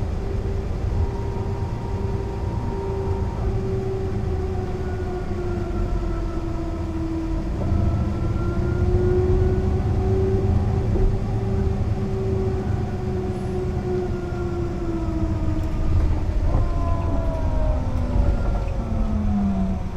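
Mercedes-Benz O 405 NÜ bus driving, heard from on board: a low drivetrain rumble under a steady whine that drifts slightly in pitch, getting louder about eight seconds in, then the whine falls in pitch over the last few seconds as the bus slows.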